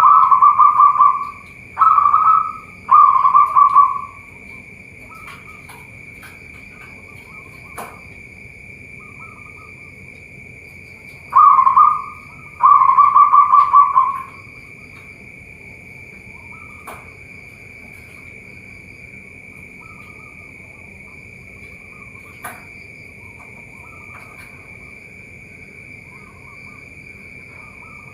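Zebra doves (perkutut) cooing: bursts of rapid, pulsed coos, three in the first four seconds and two more from about eleven to fourteen seconds in. A steady high-pitched hum runs underneath, with faint chirps from other birds.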